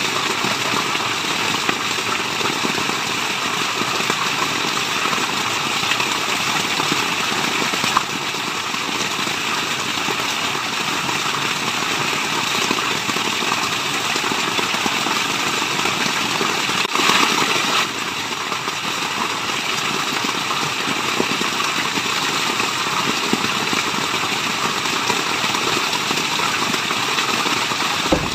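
Waterfall: steady rushing, splashing water, with a brief louder surge about two-thirds of the way through.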